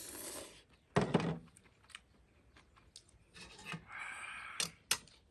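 Eating sounds from a ramen meal: a loud dull knock about a second in, scattered small clicks, and short noisy slurping stretches near the start and about four seconds in.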